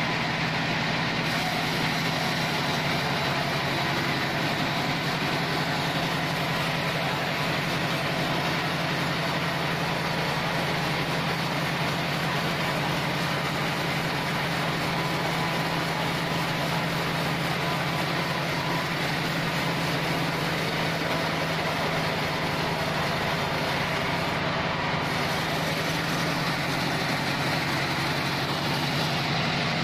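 Machinery of a log band sawmill running steadily at an even level, with a constant low drone.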